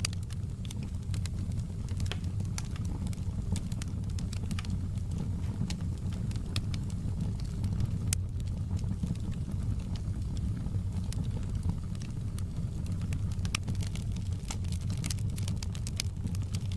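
Wood fire crackling, with irregular sharp pops and snaps over a steady low rumble; the crackles come thicker near the end.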